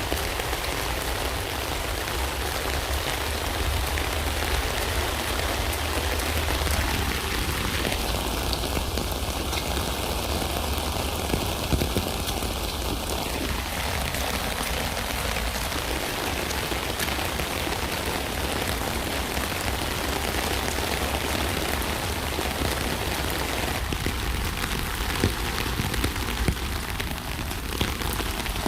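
Steady rain falling on a tent, an even hiss of drops with a low rumble beneath and a few louder single drops ticking now and then.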